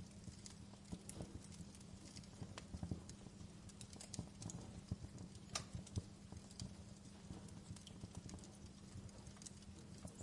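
Wood fire crackling in a fireplace: a low steady rumble of burning with irregular sharp pops and snaps scattered throughout.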